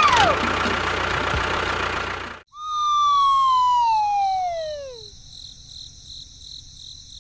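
A loud burst of hissing noise lasting about two and a half seconds, then a siren-like tone that slides steadily down in pitch over about two and a half seconds and fades, leaving a faint high ringing tone.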